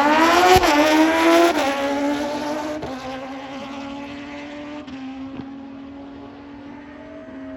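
Drag racing motorcycle engine at full throttle, its pitch climbing and dropping back at quick gear changes twice in the first second and a half. It then fades steadily as the bike runs away down the strip, leaving a faint steady engine note.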